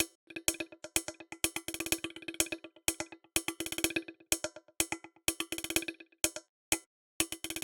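Electronic percussion loop from a track being produced: short, dry, pitched hits on one note in fast clustered rhythmic runs, with brief gaps between runs.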